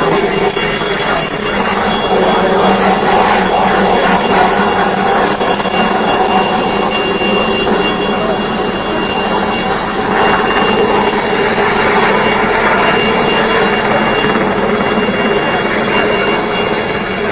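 Helicopter's turbine engine and rotor running steadily: a loud rushing drone with a constant high-pitched turbine whine over it.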